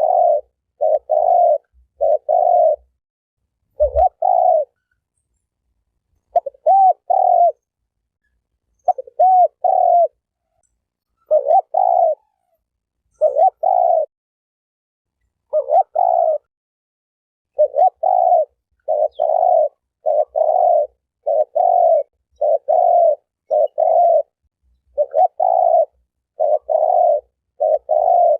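Spotted dove cooing: short low coos repeated in phrases of two to four, with gaps of up to about two seconds between phrases. A low thump comes about four seconds in.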